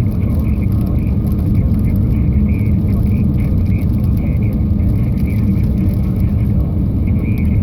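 Steady road and engine noise inside a moving car: a low, even rumble.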